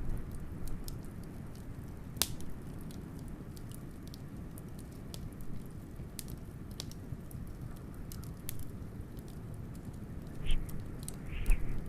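Wood fire crackling with scattered sharp pops, one louder pop about two seconds in, over a steady low rumble of blizzard wind that swells briefly near the end.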